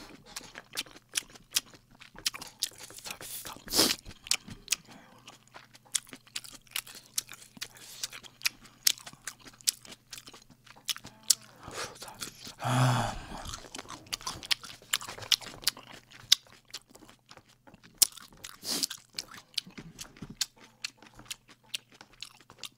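Close-miked eating of creamy seafood noodle soup (cream jjamppong) with chopsticks: chewing and wet mouth sounds, heard as many small sharp clicks at irregular intervals. A brief hum of the voice comes about 13 seconds in.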